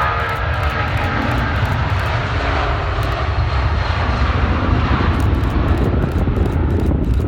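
Jet engines of a Boeing 757-200F freighter at takeoff power: a loud, steady roar, with a fading engine whine in the first moments.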